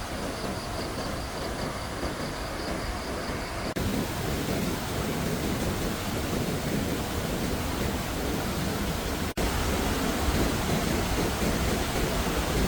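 Steady rush of water, with abrupt breaks about four seconds in and again near nine seconds, after which the rush is a little louder.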